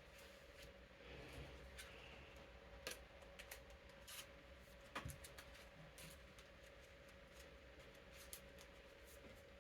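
Playing cards being slid into plastic card sleeves: faint, scattered clicks and light rustles over the steady hum of an electric fan.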